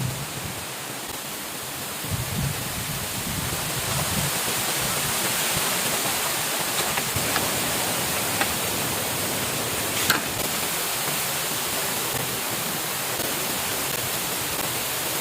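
Steady hiss of heavy rain, with a couple of faint low rumbles in the first few seconds and a single sharp click about ten seconds in.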